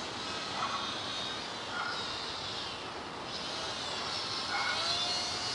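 WLToys F949 Cessna-182 RC plane's small electric motor and propeller whining in flight, the pitch drifting up and down, over a steady hiss.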